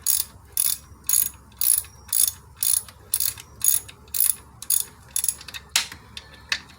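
Hand ratchet wrench clicking in short bursts about twice a second on its back-strokes as an alternator mounting bolt is tightened down. The clicking stops about six seconds in.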